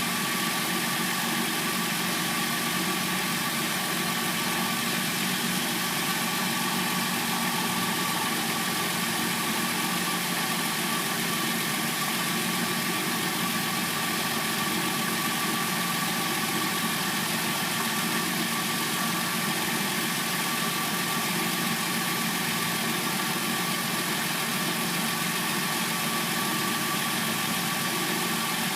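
Hyundai Sonata replacement engine idling steadily while it warms up from a cold start, with a thin, steady high whine over the running noise.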